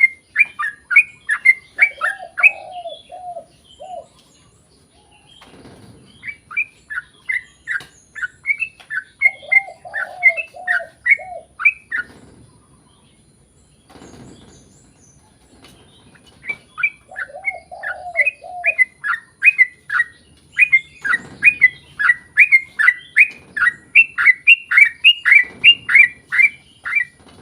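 Yellow-vented bulbul (trucukan) singing long, fast runs of sharp, downward-sliding chirps, about four a second, in phrases of several seconds with short pauses between them. A lower warbled phrase comes in three times, at about 2, 9 and 17 seconds.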